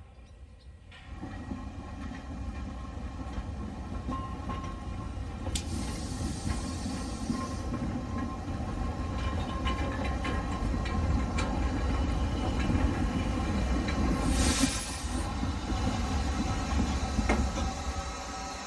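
Train running on the rails, rumbling and clattering as it draws nearer and grows louder, then easing slightly near the end, with two short bursts of hiss about six and fourteen seconds in.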